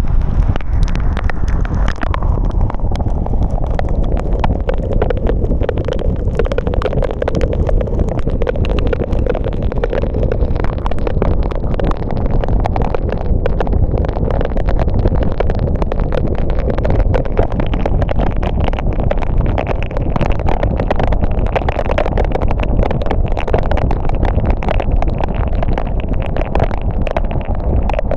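Car driving on a wet road in the rain: a steady low rumble of road and tyre noise, with a constant rapid ticking of raindrops. A tone in the road noise drops in pitch over the first few seconds, then holds steady.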